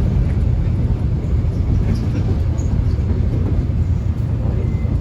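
Steady low rumble of a subway train heard from inside the moving car, with a few faint small clicks and rattles over the drone.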